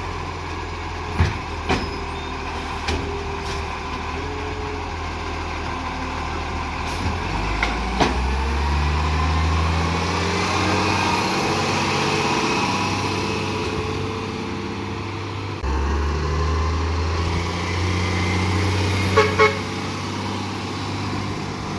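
Garbage truck's engine running, its note stepping up about eight seconds in and again near sixteen seconds, with a few sharp knocks in the first eight seconds and two short sharp toots or squeaks about nineteen seconds in.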